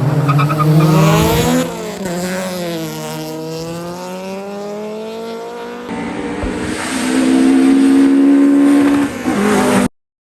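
Racing car engine revving hard. Its pitch climbs over the first second and a half, drops away, rises slowly again, then holds high and loud for about three seconds before cutting off abruptly near the end.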